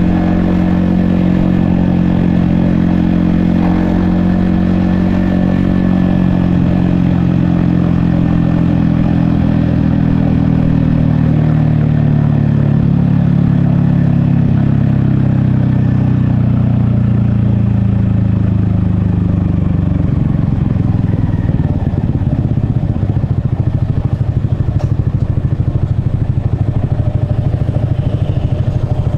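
Yamaha XSR155's 155 cc single-cylinder engine running under way, its pitch slowly falling as the bike slows, then settling into an even low pulsing idle about two-thirds of the way through.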